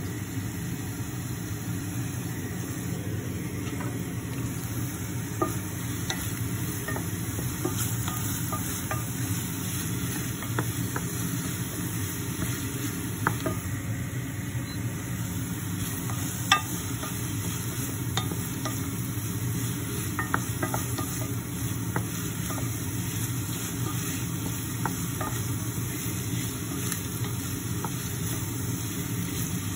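Chopped onions sizzling in a stainless steel All-Clad pot while a wooden spoon stirs them, with scattered sharp knocks of the spoon against the pot, the loudest about halfway through.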